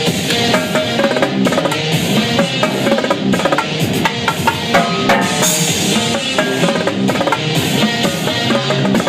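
Live drums played over an electronic dance track: rapid drum strikes and rolls on top of the track's steady beat and synth notes.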